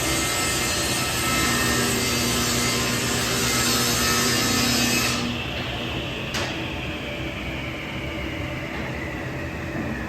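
A power tool running on wood, switched off about five seconds in, its motor whine falling slowly in pitch as it spins down; a sharp click comes soon after.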